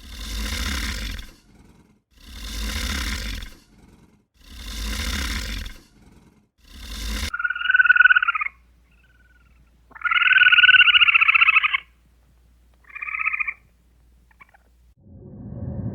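Animal calls: four rasping, breathy calls at an even pace, each a little over a second long, then three higher, clear-pitched calls, the last one short.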